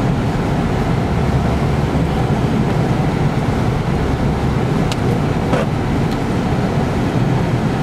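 Car driving at about 40 miles an hour, heard from inside the cabin: a steady low rumble of engine and road noise, with two faint clicks about five seconds in.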